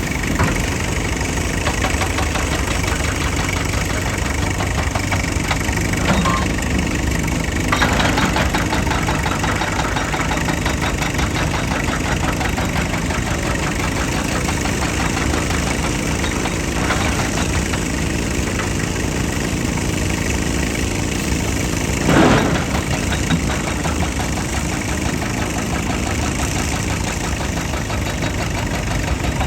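Heavy machine engine running steadily, with a few brief louder knocks or scrapes, the loudest about 22 seconds in.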